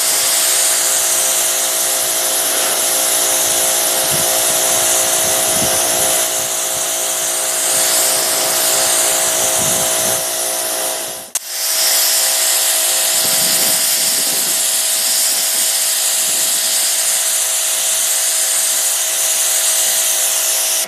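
Ryobi 2000 psi pressure washer running and spraying from the bare wand and nozzle, a steady pump whine under the hiss of the water jet. The sound cuts out for a moment about halfway, then carries on as before.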